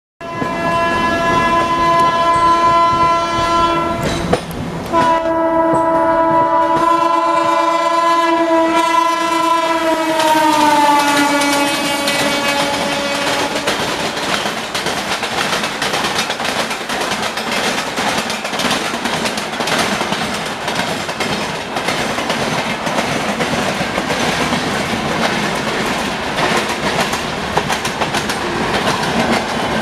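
A train horn sounds one long held blast, broken briefly about four seconds in, and its pitch slides down as the locomotive passes. It is followed by the steady rumble and clickety-clack of train wheels running over rail joints.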